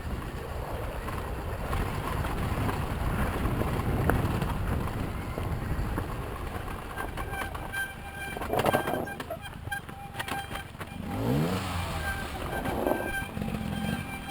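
Yamaha YZ250FX dirt bike's single-cylinder four-stroke engine running on a trail, with a rising rev about three-quarters of the way through.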